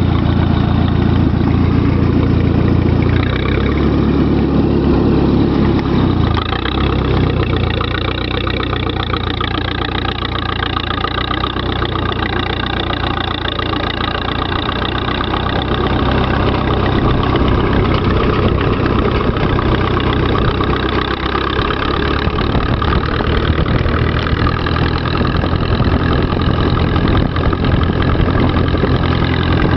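Farm tractor engine running steadily as the tractor is driven. Its pitch shifts a few seconds in, it eases a little, and then it builds again about halfway through.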